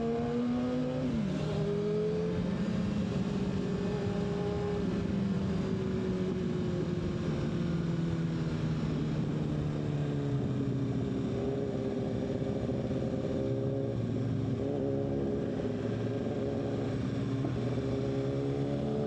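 BMW S1000RR's inline-four engine pulling under the rider: its pitch rises, drops sharply about a second in as it shifts up, holds and slowly sags through the middle, then climbs again near the end. The engine is still in its running-in period, ridden gently.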